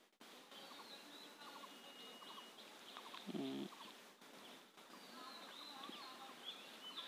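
Faint background birdsong: scattered short chirps throughout, with one brief lower-pitched call about three and a half seconds in.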